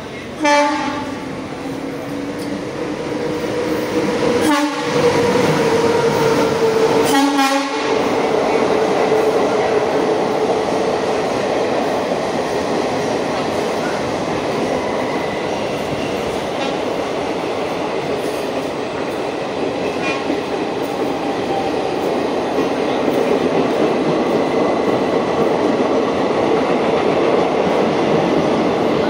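Indian Railways passenger train running along the platform. Its horn sounds in the first several seconds, then the coaches roll past with a steady loud rumble.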